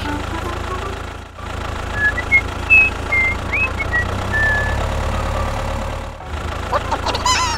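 Tractor engine running steadily, a low drone that dips briefly twice, with a few short high chirps over it in the middle.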